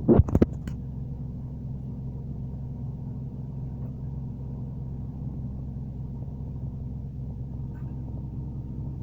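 Diesel engine of a MAZ-206 city bus, a Mercedes-Benz OM 904LA four-cylinder turbodiesel, running at a steady low speed, heard inside the bus. A few loud knocks right at the start.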